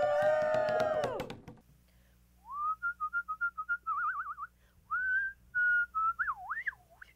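A person cheers a long "woo!", then whistles a short wavering tune with quick trills and a wide swooping slide near the end.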